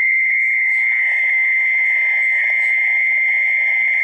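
Night chorus of frogs and insects: a dense, even frog chorus under a steady, high-pitched insect drone that does not let up.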